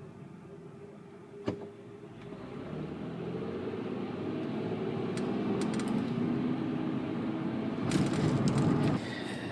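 Cabin noise of a moving 2005 Honda Pilot: engine and tyre-on-road hum that builds up over several seconds as the car gets going. There is a single sharp click near the start.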